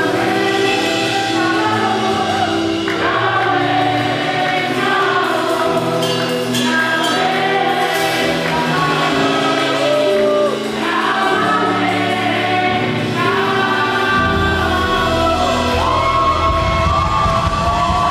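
Live gospel praise music: a choir of voices singing over a band with sustained keyboard chords, the bass coming in heavily about fourteen seconds in.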